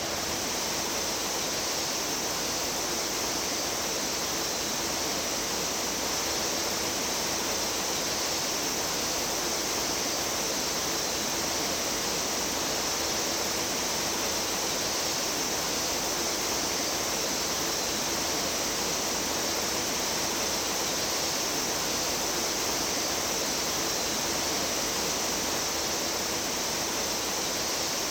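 Mountain stream water rushing steadily over rocks, an even unbroken rush.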